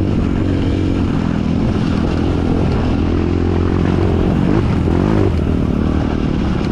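Trail dirt bike engine running steadily under way, its pitch wavering briefly about four to five seconds in.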